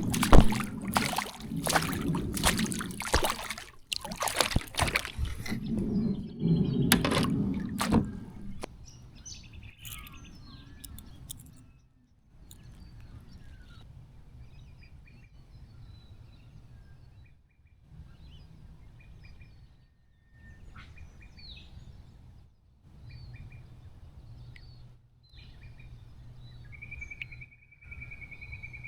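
Water splashing and sloshing for about the first eight seconds, then it drops away to faint outdoor background with birds chirping and, near the end, one bird's held trill.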